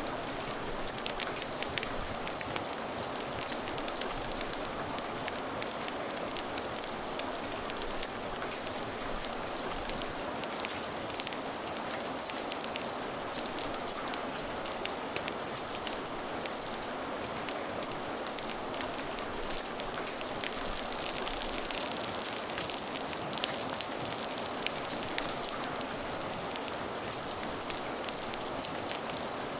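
Rain-and-crackling-fire ambience: a steady hiss of rain dotted with many small, sharp crackles.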